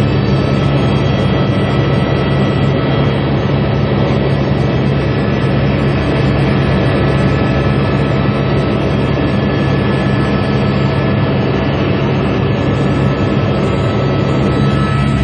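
Helicopter in flight: a steady, loud engine and rotor noise with a constant high whine over it.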